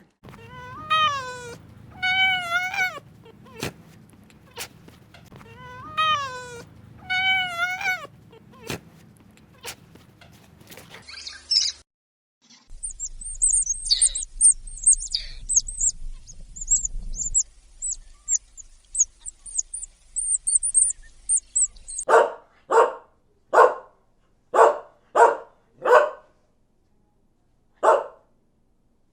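A string of animal calls. First come several drawn-out wavering calls, bleats or meows. Then a stretch of high, fast twittering of small birds, and from about two-thirds in a dog barks about eight times in quick bursts.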